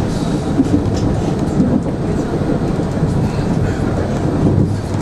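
Steady rumble of a moving passenger train heard from inside the carriage.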